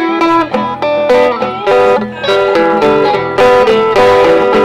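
Live blues band playing a guitar fill between sung lines: a run of plucked notes, some of them bent in pitch.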